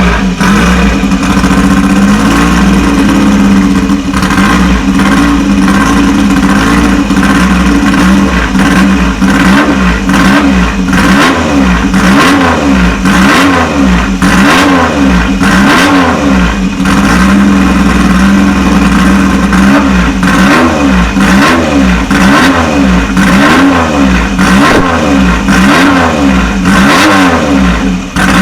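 Triumph Trident three-cylinder race engine in a Rob North racer, run hard, its revs climbing and dropping again and again.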